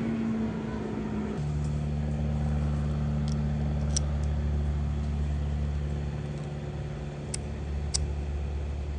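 A steady low engine hum from a motor vehicle, its note shifting lower about a second and a half in, with a few light metallic clicks and clinks of hand tools and small metal parts.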